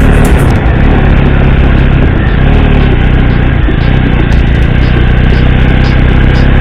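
Motorcycle engine running under way, its pitch dipping and rising as the revs change.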